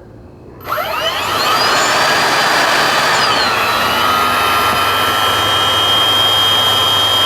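Twin 90 mm Dr. Mad Thrust electric ducted fans of a radio-controlled model airliner spooling up under a second in, a rising whine over a loud rush of air, then running steadily at power. A few seconds in the whine tones shift, one dropping in pitch as the two fans settle at different speeds.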